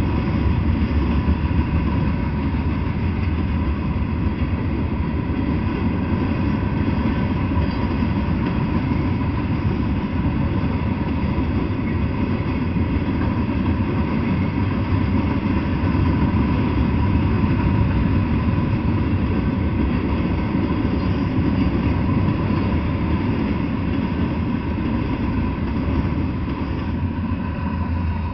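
Freight train of flatcars loaded with steel coils rolling past: a steady, loud rumble of wheels on the rails that begins to fade right at the end as the last cars go by.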